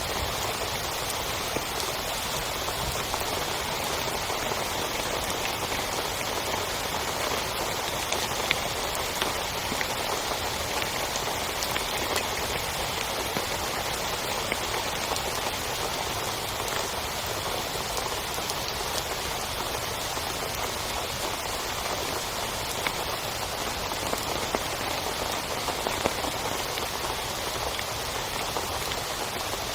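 Heavy rain falling steadily on a tent, with a few sharper drop hits standing out now and then.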